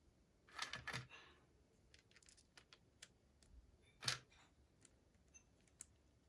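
Faint handling noises from unboxing small plastic toys and their packaging. A short rustle comes about half a second in, a sharper click about four seconds in, and scattered light ticks fall in between.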